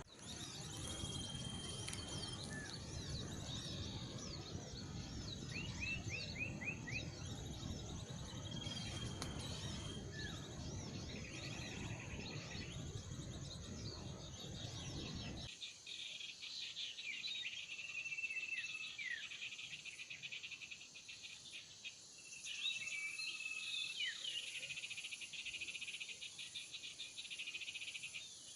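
Many small birds chirping and twittering in quick, high notes, with a few held whistles, over a steady insect-like trill. A low background rumble under them cuts off suddenly about halfway through.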